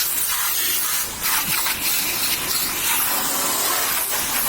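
High-pressure water spray from a car-wash pressure washer hitting a car, a steady hiss that breaks off briefly about a second in.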